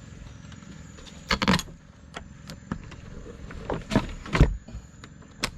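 A string of sharp knocks and clatters from handling fishing gear in a small boat, the loudest a pair of thumps just past four seconds in, over a steady chirring of night insects.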